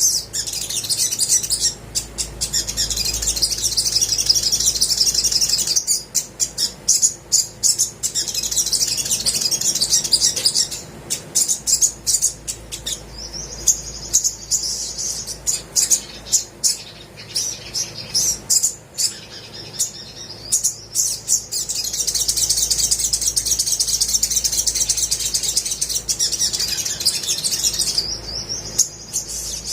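Olive-backed sunbird singing: long, rapid high-pitched trills that alternate with runs of short sharp chirps.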